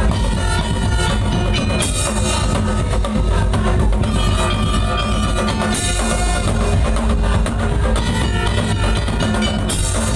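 Madurese daul troupe playing: heavy drums and percussion driving under a melody line, with bright crash accents about every four seconds.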